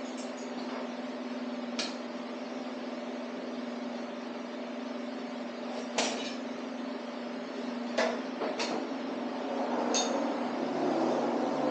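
Sharp metallic clinks of tools and parts, about five scattered strikes, over a steady electrical or fan hum during an engine teardown.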